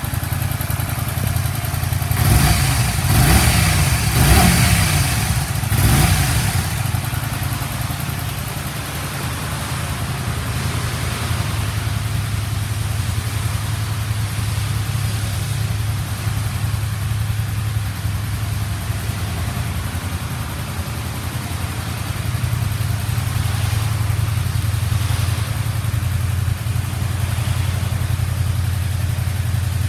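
Honda VTR250's 90-degree V-twin engine idling. A few quick throttle blips about two to six seconds in make the revs rise and fall, then it settles back to a steady idle.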